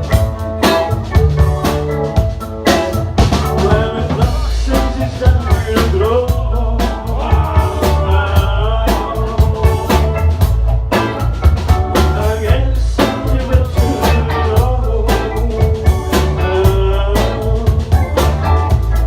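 Live rock band playing: drum kit and bass keep a steady beat under electric guitar, with a wavering melodic line over the top.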